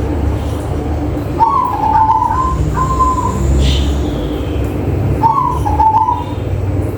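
Zebra dove (perkutut) cooing: two phrases of rolling coos a few seconds apart, over a steady low rumble.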